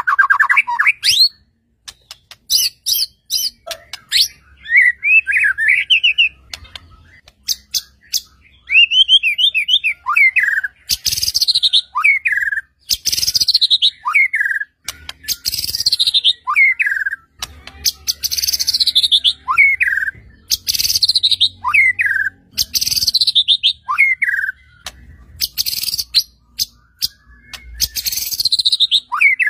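White-rumped shama (murai batu) singing a rapid, varied song of trills and whistles. From about a third of the way in it settles into one loud phrase repeated about every two seconds: a high falling rush of notes ending in a falling whistle.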